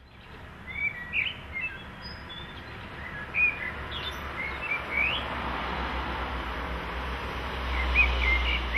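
Small birds chirping repeatedly over a steady outdoor background hum, with a low rumble growing louder near the end.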